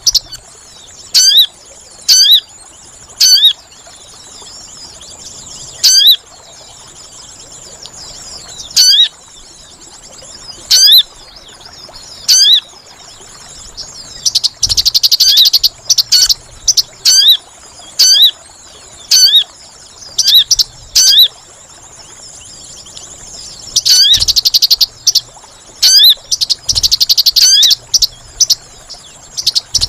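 Sogon bird calls played as a bird lure: short, sharp, sweeping chirps repeated at irregular intervals, with several longer bursts of rapid, dense chattering.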